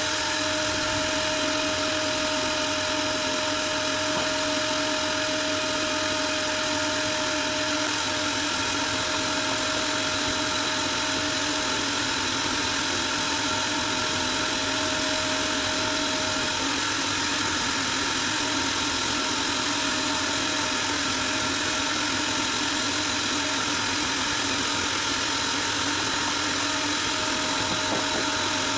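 Power sander running steadily while sanding down body filler, an even whirring hum with a grinding hiss that holds without a break.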